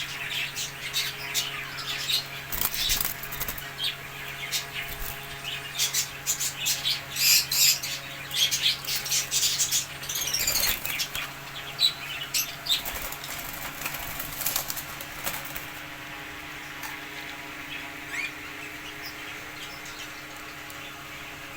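Aviary of cockatiels and other small parrots fluttering their wings and chirping, busiest over the first fifteen seconds or so and then thinning to scattered chirps. A steady low hum runs underneath.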